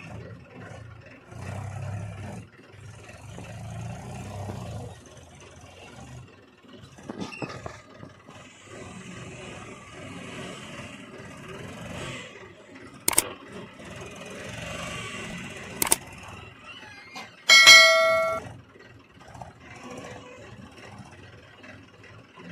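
Heavy machinery working: an engine running unevenly with metallic clanks and scrapes, two sharp knocks past the middle, and a short, loud pitched tone a little later, the loudest sound.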